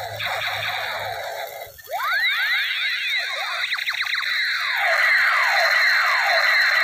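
Battery-powered toy space gun firing its electronic laser sound effect: a quick run of falling 'pew' zaps, a short siren-like flurry of rising and falling sweeps about two seconds in, then more falling zaps.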